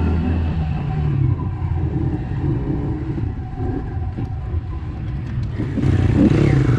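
Small pit bike engine running at low revs, its pitch shifting a little, turning louder and rougher near the end.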